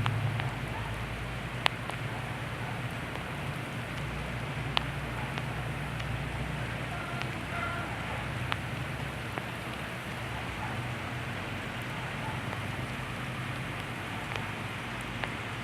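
Rain falling steadily in a hurricane storm, with scattered sharp drips and taps over a low steady hum.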